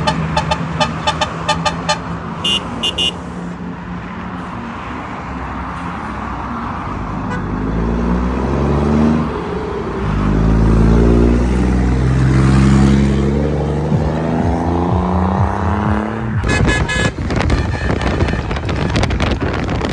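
Truck engine accelerating, its pitch climbing in several successive rises, as if shifting up through the gears, over steady road noise. In the last few seconds the sound turns into dense wind buffeting on the microphone.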